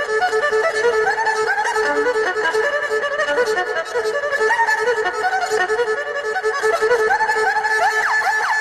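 Erhu playing solo: quick, chirping high notes with short pitch slides that imitate birdsong, ending in a run of fast sliding notes.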